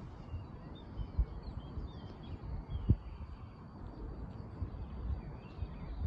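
Small birds chirping and twittering in short curved calls, over a low, irregular rumble with thumps, the sharpest about three seconds in.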